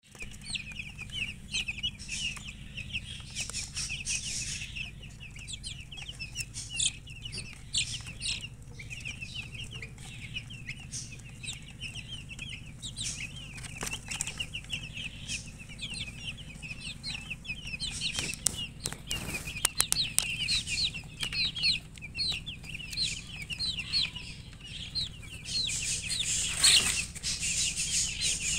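Newly hatched chicken chicks peeping loudly, many short high cheeps overlapping without pause. Brief rustling bursts break in a little past halfway and again near the end.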